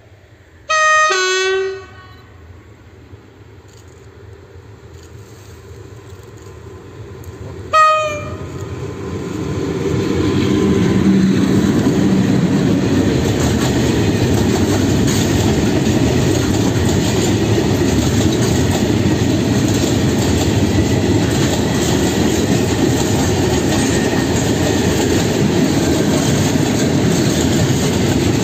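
PKP class ET22 electric freight locomotive sounding its horn: one blast of about a second, then a short toot some seven seconds later. The train then passes close by, and the steady loud rush of its open freight wagons' wheels on the track builds and holds.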